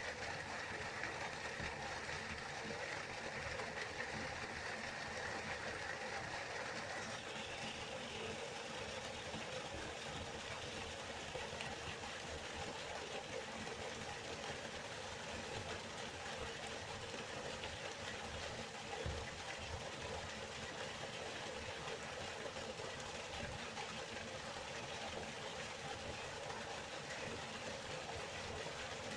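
Steady rushing of a flowing river. Its tone shifts slightly about seven seconds in, becoming a little more hissy.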